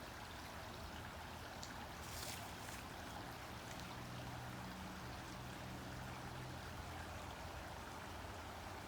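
Faint, steady running water of a small stream.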